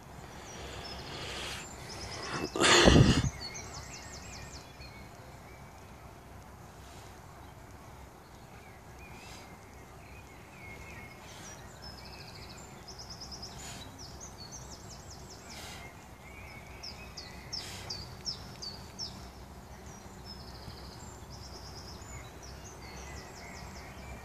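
Small birds chirping and singing in repeated short trills over steady outdoor background noise. A brief loud burst of noise comes about three seconds in, and faint knocks sound now and then.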